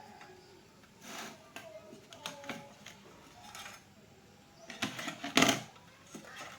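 Scattered light clicks and knocks, with a louder clatter about five seconds in; faint voices in the background.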